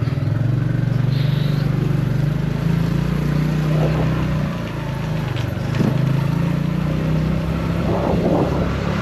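Motorcycle engine running steadily while riding, its note easing briefly about halfway through before picking up again.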